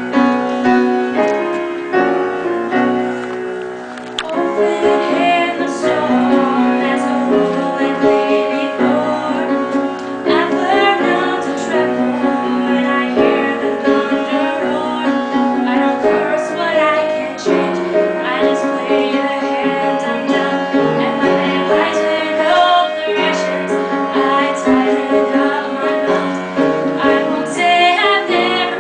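A woman singing a slow song to piano accompaniment. The piano plays alone at first, and the voice comes in about four seconds in.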